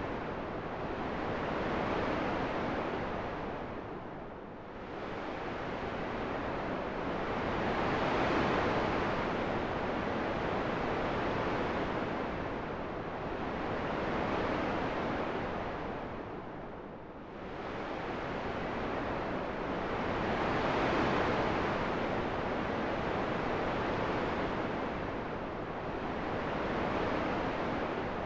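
Wind blowing in slow gusts, the rush swelling and easing every several seconds and twice falling to a lull.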